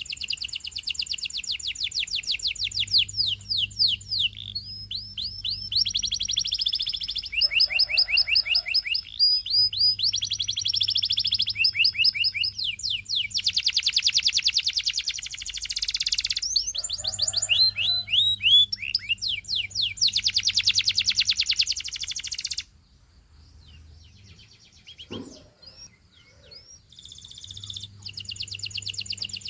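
Domestic canary singing in long, fast trills of rapidly repeated high notes, with brief gaps between phrases. The song breaks off about three-quarters of the way through and starts again near the end.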